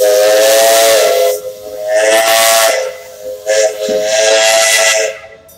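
Port Huron three-chime steam whistle on the Myron H locomotive sounding a chord in two long blasts, with a loud rush of steam hiss between them.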